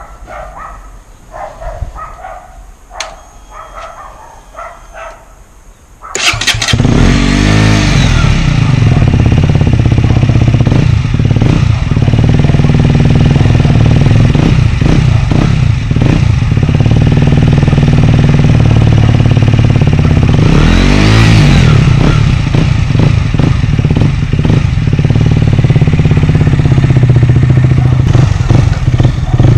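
2018 KTM Duke 125's single-cylinder engine, fitted with a GPR exhaust with the dB killer removed, starting suddenly about six seconds in after a few faint short sounds. It is blipped a couple of times, then settles into loud running, with one rev up and back down about twenty-one seconds in.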